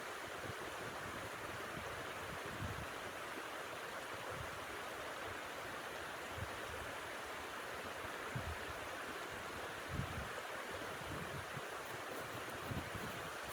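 Blizzard wind blowing steadily as a rushing noise, with irregular low gusts buffeting the microphone.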